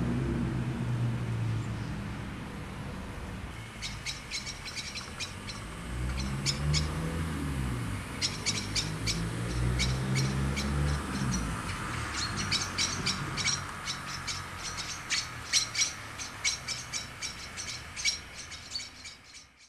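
Garden birds chirping in quick, irregular runs from about four seconds in. Under them is a low hum that rises and falls in pitch, from the small electric motor of a model class 47 diesel locomotive running along the track.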